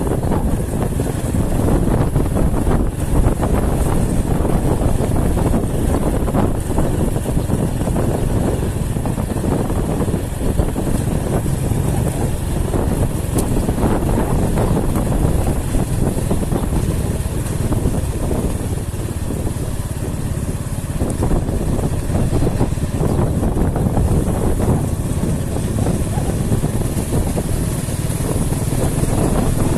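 Steady engine and road noise of a vehicle travelling along a road, with wind buffeting the microphone.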